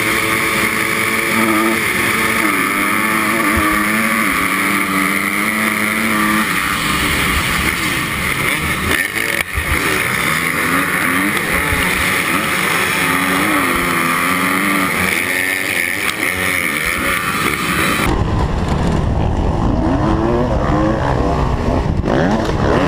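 Dirt bike engine running as it is ridden, its pitch rising and falling as the throttle opens and closes. A few seconds before the end the sound shifts to a heavier low rumble.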